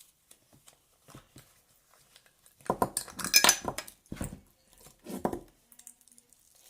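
A homemade pink PVA-glue slime being handled in its plastic tub: scattered clicks and knocks, with a louder spell of clattering and crackling about three seconds in and two shorter bursts after it.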